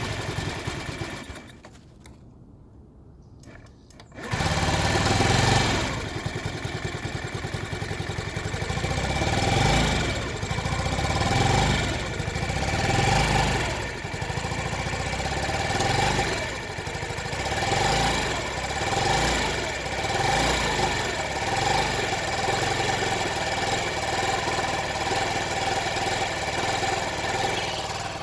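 Honda Ruckus 49cc four-stroke scooter engine briefly cranking, then catching about four seconds in and running rough, its revs surging up and down on their own every second or two while held at part throttle, settling somewhat near the end. The hunting idle comes from a gummed-up carburetor.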